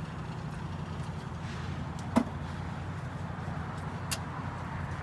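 A steady low machine hum, with a sharp knock about two seconds in and a lighter click about two seconds later.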